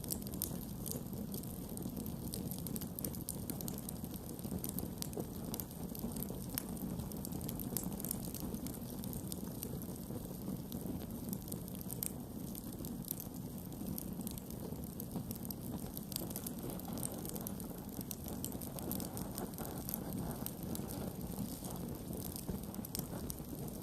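Campfire burning: a steady low rumble of the fire with many small crackles and pops scattered irregularly throughout.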